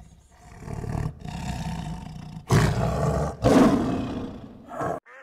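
A big cat roaring repeatedly in low, rumbling roars, the two loudest about two and a half and three and a half seconds in; the sound cuts off abruptly near the end.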